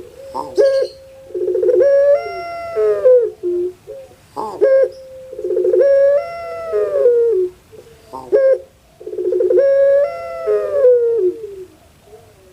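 Puter pelung dove (Streptopelia risoria) cooing: three long rolling coos a few seconds apart, each a held note that rises and then falls away in pitch.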